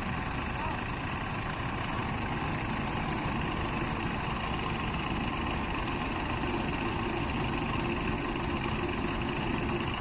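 Heavy engine running steadily at idle, with a slightly higher hum joining about six and a half seconds in.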